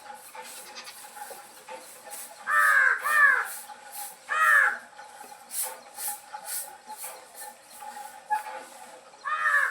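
Crows cawing: four harsh caws, two close together about two and a half seconds in, one near four and a half seconds, and one near the end, over steady high chirping from smaller birds.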